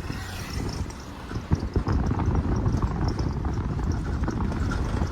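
Hooves clopping on a paved street in an irregular, overlapping rhythm.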